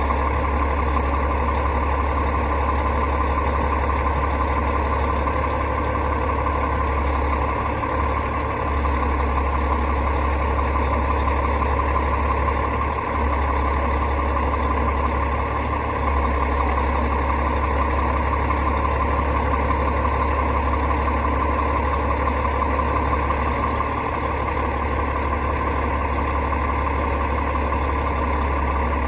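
Rooftop HVAC unit running with a steady, unchanging mechanical hum.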